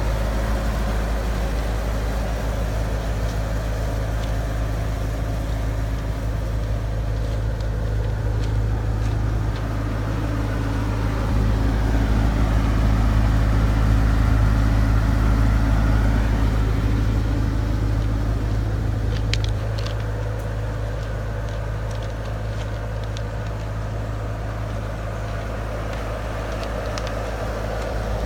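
Bobcat S185 skid steer's 56 hp Kubota turbo diesel engine running steadily. It grows louder for several seconds in the middle, then settles back, with a few faint clicks along the way.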